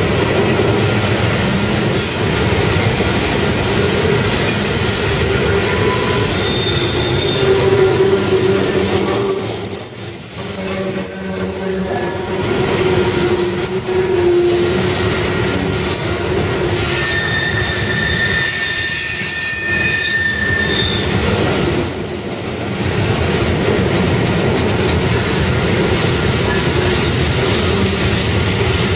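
Union Pacific coal train's hopper cars rolling past on steel wheels, making a steady rumble. Thin, high-pitched wheel squeals come and go from about nine seconds in to about twenty-three seconds.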